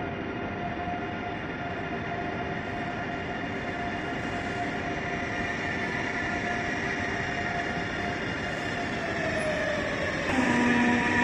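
ICE 3 high-speed electric train pulling slowly into a platform, its traction drive whining in several steady tones over the rumble of the running gear, growing gradually louder as it nears. One tone glides downward as the train brakes, and about ten seconds in the sound steps up suddenly with a new set of tones.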